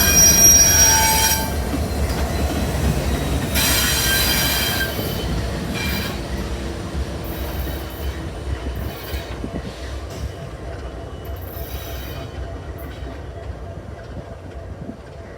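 Passing train with its steel wheels squealing against the rails, loudest in the first second and a half and again around four seconds in, with a low rumble that fades away as the train recedes.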